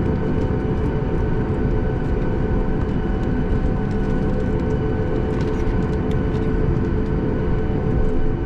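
Cabin noise of a Boeing 737 MAX 8 taxiing, its CFM LEAP-1B engines at idle: a steady low rumble with a few steady whining tones.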